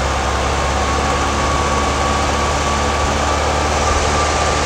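1958 Porsche 356A's air-cooled flat-four engine running steadily at a fast idle of about 2,500 RPM, held there by the dash throttle hold. Its twin Zenith carburetors are out of balance: the right one is pulling harder because the throttle linkage is out of adjustment.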